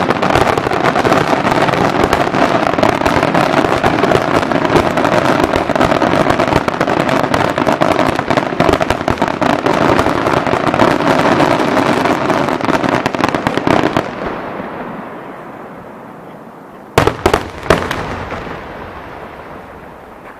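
A dense fireworks barrage: a continuous rapid crackle of explosions that fades out about fourteen seconds in. A few seconds later come three sharp, loud single bangs, the loudest sounds here, each followed by a fading rumble.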